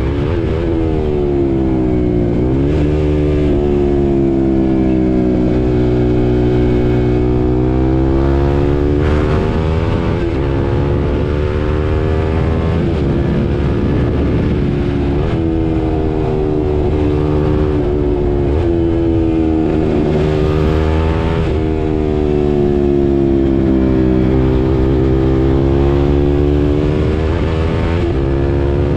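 A KTM RC 390's single-cylinder engine heard from the rider's seat while riding. The engine pitch rises and falls again and again, with a sudden break roughly every six seconds as the revs change.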